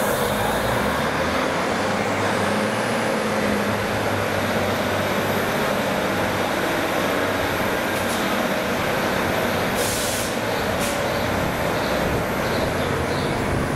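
Train running through the station: a loud, steady rumble and rush of noise, with a faint high whine that rises about two seconds in and falls away near the end.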